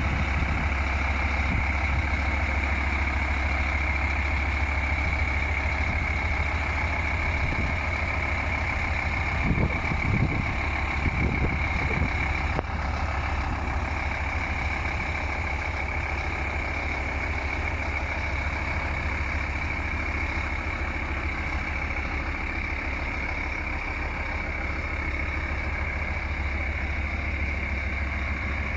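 Scania P310 truck's diesel engine idling steadily, with a constant high tone over it. A few brief, louder thumps come about ten seconds in.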